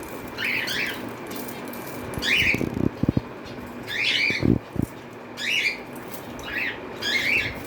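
Cockatiel calling: six short, squawky chirps spaced about one to two seconds apart, with a few short low thumps around the middle.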